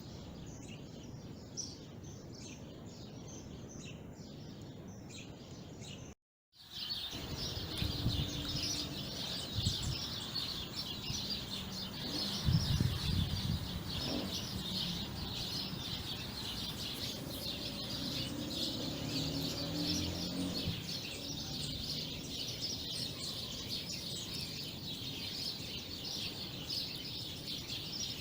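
Many birds chirping and singing, a dense chorus of short high calls. The sound cuts out briefly about six seconds in, then returns louder and denser, with some low rumbling under the chirps for a while after.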